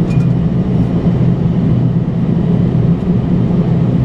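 Steady flight-deck noise of a Boeing 767-300ER on approach with landing gear down: a low drone from engines and airflow with a rushing hiss above it, unchanging throughout.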